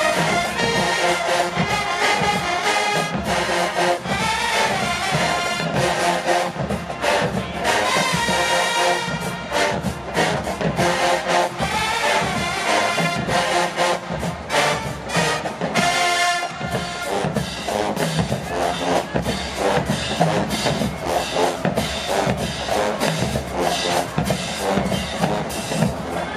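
HBCU show-style marching band playing a loud brass-heavy tune, trumpets and trombones over a driving drum cadence.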